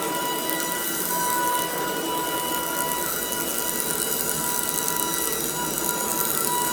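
Shark DuoClean cordless stick vacuum running steadily, its motor giving a high whine over the rush of suction, with a fine crackle of grit being sucked up.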